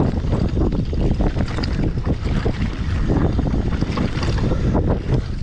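Heavy wind buffeting the microphone of a mountain bike rider riding a trail, mixed with the rumble and irregular rattles of the bike over rough ground.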